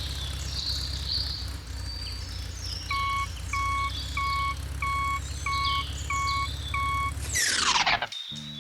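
Steady low machine hum with birds chirping. From about three seconds in, seven evenly spaced short beeps, then a falling whoosh near the end before the hum cuts off.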